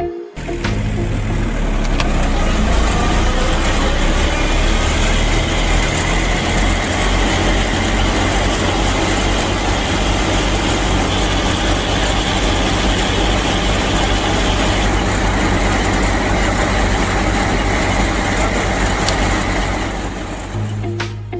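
Engine of a DIY mini tractor running steadily with an even low pulse, cutting in just after the start and easing off near the end.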